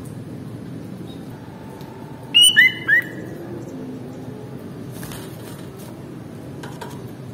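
Sooty-headed bulbul giving a quick run of three loud whistled notes about two and a half seconds in, over a steady low background hum.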